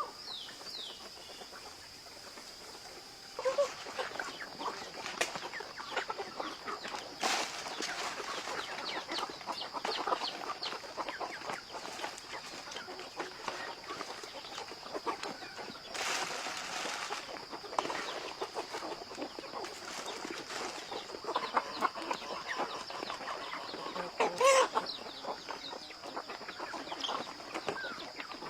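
Chickens clucking, with many short calls over a steady high-pitched tone.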